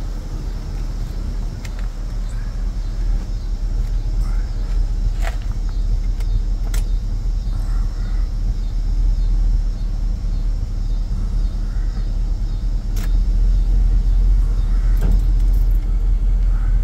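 1972 Lincoln Continental Mark IV's 460 V8 running steadily with a deep low rumble and a few light clicks over it. The engine has an exhaust leak.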